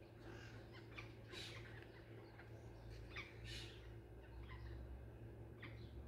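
Small birds perched in a tree calling: scattered short chirps and calls, the loudest about a second and a half in and again about three and a half seconds in, over a faint steady low hum.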